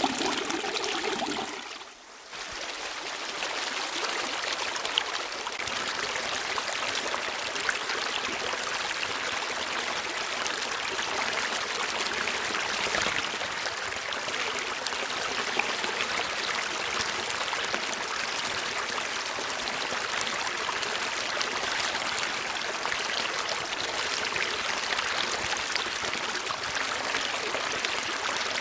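Water of a stream flowing and trickling steadily. The sound dips briefly about two seconds in, then runs on evenly.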